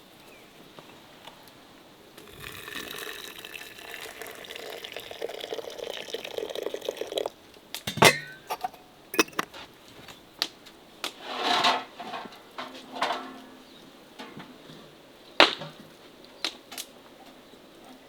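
Water being poured into a pot for about five seconds, the pitch of the pour slowly rising as the pot fills. After it come a series of sharp clinks and knocks of utensils against cookware, with a couple of brief scraping rustles.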